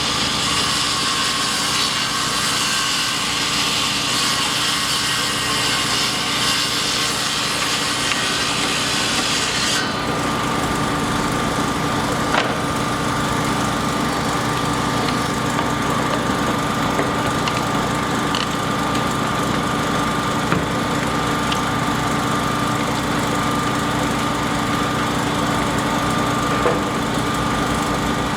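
Construction machinery running steadily with a constant engine-like hum. A high hissing, sawing-like noise stops suddenly about a third of the way in. A few sharp knocks come later.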